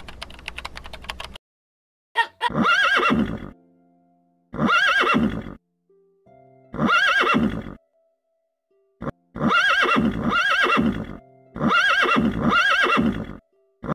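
A horse whinnying in five loud bursts of long, quavering calls that rise and fall, the later bursts running two or three calls together. It is preceded by a rapid clicking in the first second and a half.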